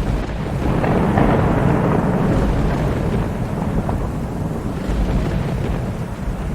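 Rolling thunder rumbling over steady rain. The rumble swells about a second in, then slowly dies away under the rain's hiss.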